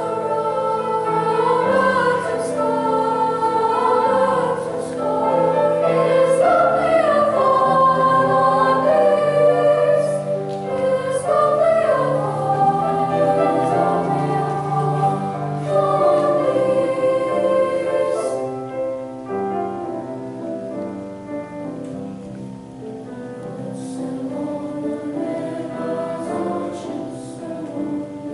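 Junior high school choir singing in parts, full and loud at first, then dropping to a softer passage about eighteen seconds in.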